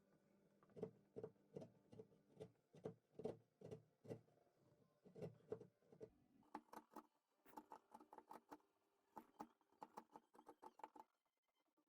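Light taps of a wood chisel being struck into a door's hinge mortise, about three a second, then quicker, higher-pitched taps from about six seconds in.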